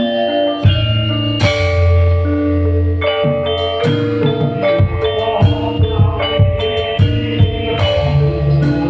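Loud live band music: held melody notes over strong bass, with repeated percussion strikes.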